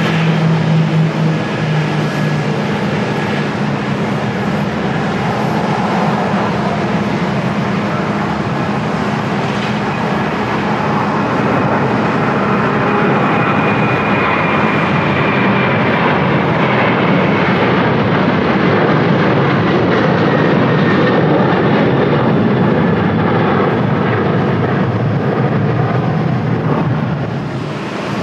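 Jet airliner's engines passing close by: a loud, steady roar with a faint high whine that slides down in pitch partway through, easing off a little near the end.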